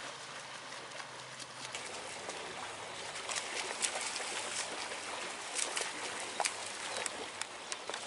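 Water splashing and trickling, with many short sharp splashes that come thicker in the second half. A low steady hum stops about two seconds in.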